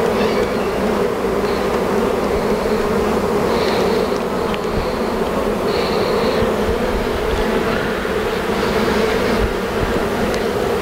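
A swarm of honey bees buzzing close to the microphone: a loud, steady hum of many wings that never lets up.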